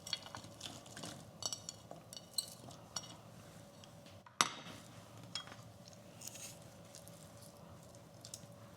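Light scattered clinks and taps of a utensil and bowl against a pan as chopped onion and chicken pieces are tipped into cold broth, with no sizzle because the heat is not yet on. One sharper knock comes about four and a half seconds in.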